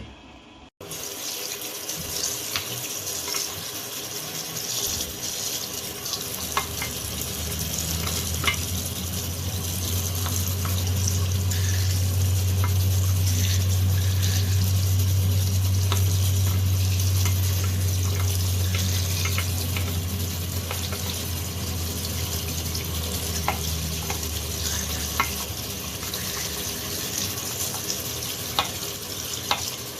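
Tap water running steadily while the washing machine's drain pump filter is rinsed clean, with occasional light clicks of the plastic filter being handled. A low hum swells in the middle and fades again.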